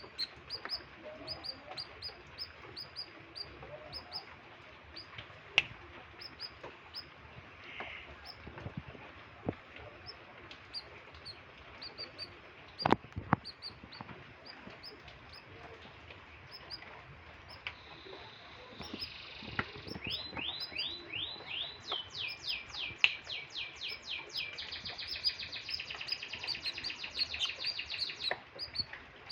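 Domestic canary singing: short high chirps repeated about twice a second, then from about two-thirds in a long, fast trilling run of song. The uploader calls the bird gacor (in full voice) and in heavy breeding condition. Two sharp knocks come around the middle, the loudest sounds.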